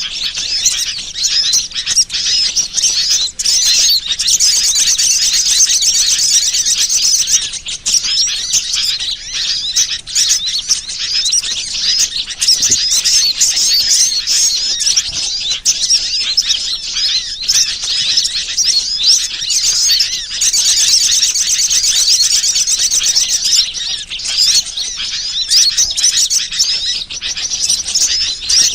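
Bird-lure recording of small birds chirping and twittering in a dense, unbroken chorus, high in pitch, with two stretches of fast trilling, a few seconds in and again about two-thirds of the way through.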